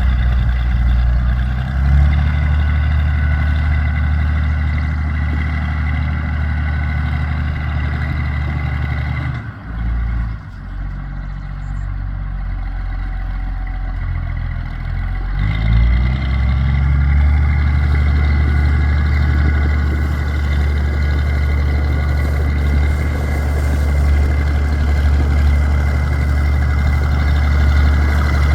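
1966 Oliver 1650 tractor's diesel engine running steadily. The engine note dips about a third of the way in, then rises again a little past halfway and holds steady.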